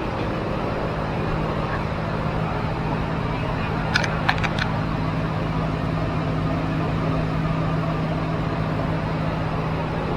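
A steady mechanical hum, like a motor or engine running, with a few quick sharp clicks about four seconds in.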